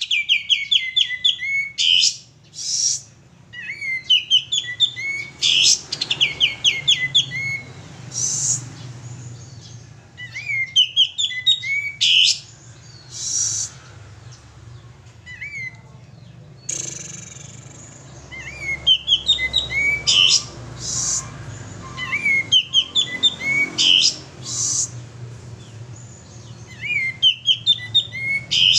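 Male sooty-headed bulbul singing: short, lively phrases of quick chirping notes, repeated every two to three seconds.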